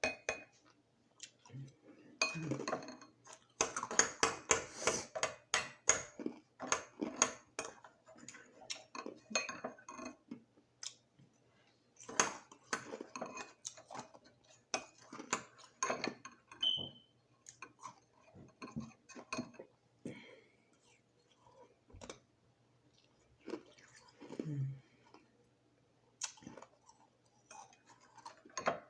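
Crushed ice being crunched and chewed, in dense runs of sharp cracks that thin out to scattered crunches in the second half, with light clinks of ice or utensils against a cup.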